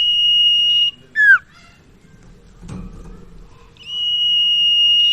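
Common iora (sirtu) song: a long, steady high whistle held for over a second, followed by a short, sharply falling note. After a pause the long whistle starts again near the end.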